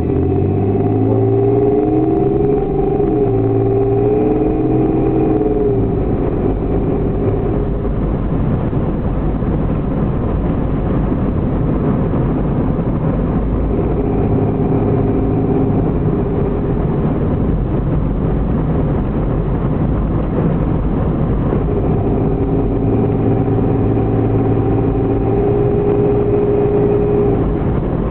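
Oldsmobile station wagon's exhaust through its new muffler, heard from inside the rear cargo area while driving, over steady road rumble. The engine pulls up through the gears with rising pitch at the start, again about halfway through and near the end.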